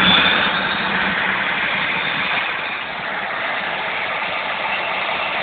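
Steady engine-like running noise, with a thin high whine that fades out about half a second in.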